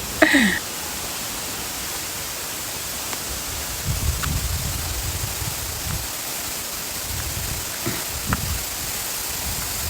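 Steady rushing hiss of a waterfall close by, with a few short low rumbles about four and eight seconds in.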